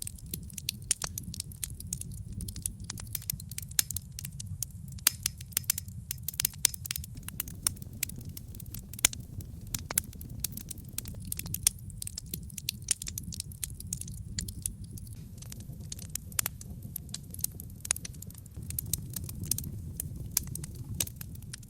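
Wood logs burning in a fireplace, crackling with frequent irregular sharp pops and snaps over a steady low rumble.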